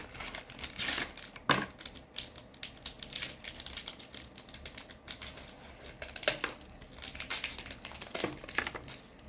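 Foil trading-card pack and packaging crinkling and crackling as it is handled and opened, with a few louder snaps.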